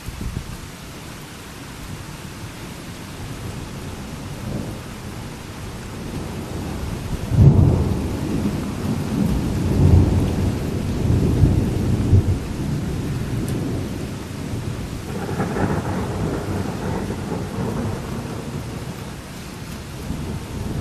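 Thunder rumbling over steady rain. A long rumble of thunder begins about seven and a half seconds in, with several loud peaks, and a second rumble follows about fifteen seconds in.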